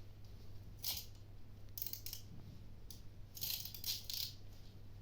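Something rattling in short bursts, four times, the last one longer, over a steady low hum.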